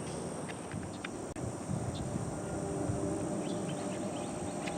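Steady high-pitched insect drone, with scattered short chirps and clicks and some low bird calls from the colony in the second half.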